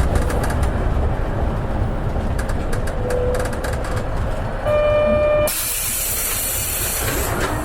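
Interior running sound of an Isuzu KL-LV280N1 diesel city bus: the engine and drivetrain run steadily, then about five seconds in a single electronic beep sounds for just under a second, followed by a loud hiss of compressed air from the bus's pneumatic system as the low running noise drops away.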